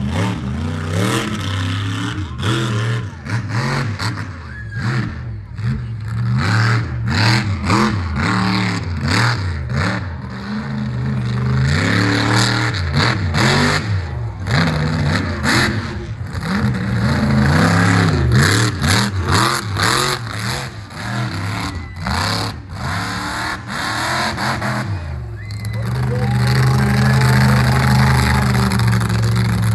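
Monster truck engine revving hard, the pitch rising and falling over and over as the throttle is blipped and lifted. Near the end it holds at steady high revs.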